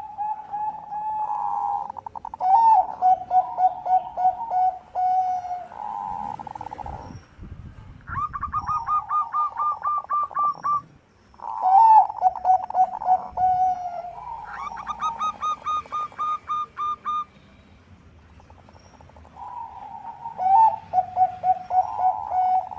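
Zebra doves (Bangkok perkutut) singing: repeated phrases of fast, even, staccato cooing pulses with short pauses between. In some phrases two pulse trains at different pitches overlap.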